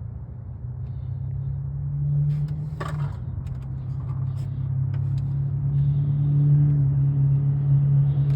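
A steady low engine-like hum that grows louder, with a few light clicks and one sharper knock about three seconds in.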